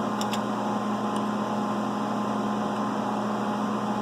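Steady hum of a CNC milling machine standing powered up between cuts, with a couple of light clicks near the start.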